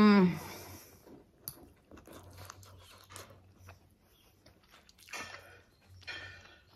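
A person chewing and eating food close to the microphone, with small wet clicks and crunches. It opens with one short vocal 'mm' sound, and there are two breathy sounds near the end.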